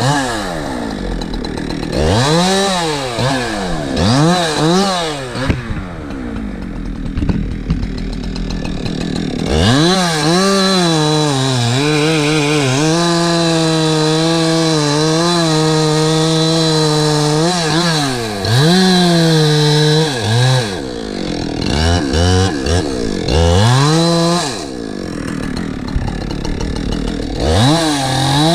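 Two-stroke Husqvarna chainsaw revved up and down in several short throttle bursts, then held at high revs for about eight seconds, cutting wood, before more short revs and a final rev-up near the end.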